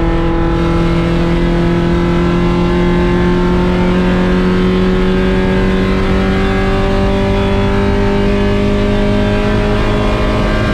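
Race-prepared 1.6-litre Mazda Miata's four-cylinder engine pulling hard, its pitch climbing slowly and steadily without a gear change as the car accelerates.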